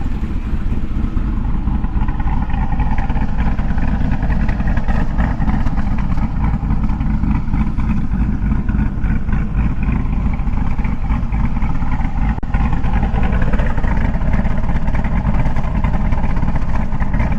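Supercharged 408 cubic-inch LS V8 with a Summit Racing Pro LS 8722R1 cam, running steadily at idle through its exhaust without revving.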